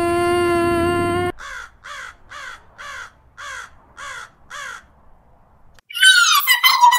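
A crow's cawing sound effect: seven caws in a row, about two a second. Before it, a steady buzzing tone over a low rumble cuts off about a second in. Near the end a loud, high-pitched voice begins.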